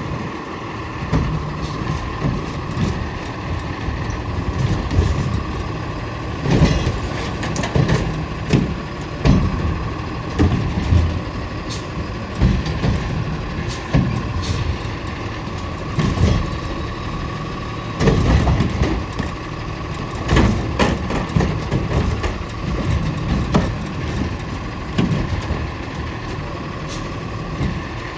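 Autocar ACX garbage truck with a Heil Curotto Can body running at work, its engine rumbling under a steady whine. Sharp knocks and bangs come every second or few throughout.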